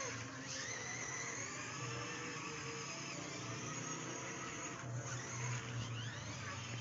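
Toy monster truck's electric motor whirring steadily.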